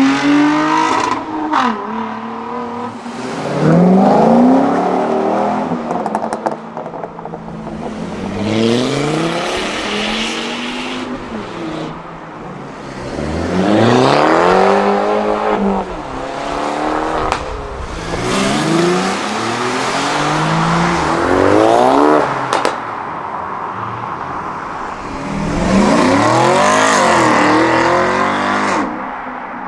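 A series of performance cars accelerating hard one after another, about six in turn, each engine revving up in rising pitch through the gears. There are a few sharp exhaust pops in between.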